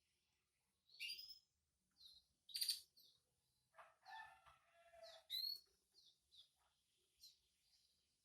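Canaries chirping: a string of short, high-pitched chirps and tweets, with one longer, lower, buzzy call about halfway through.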